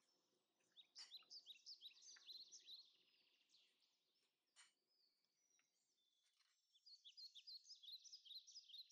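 Faint bird chirping: quick runs of short, high notes, one starting about a second in and another near the end, with a few soft clicks in between.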